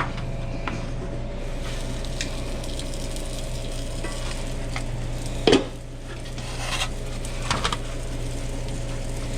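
Food sizzling in a pan on a restaurant cooking line over a steady hum, with light utensil clinks and one sharp clank of metal about halfway through.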